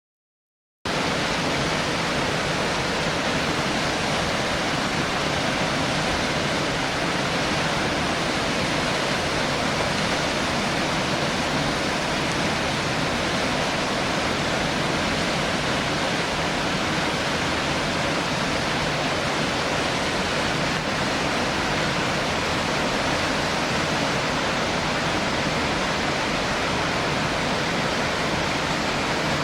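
Waterfall pouring: a steady, unbroken rush of falling water that cuts in suddenly just under a second in.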